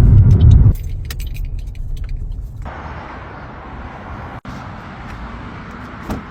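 Loud low rumble of a car on the move, which drops off abruptly less than a second in. About two seconds of light clicking and jingling follow, then a quieter steady background.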